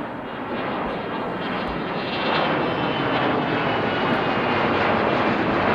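Aircraft engines running, growing steadily louder as the plane nears, with a faint high whine over the engine noise.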